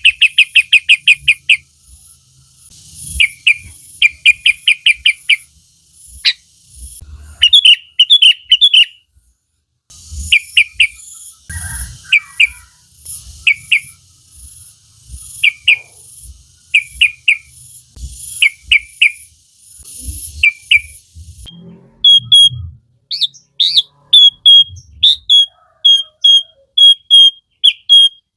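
Sooty-headed bulbul (kutilang) singing: quick runs of sharp, rapid chirps in short groups. After about twenty seconds it changes to one clear whistled note repeated about twice a second.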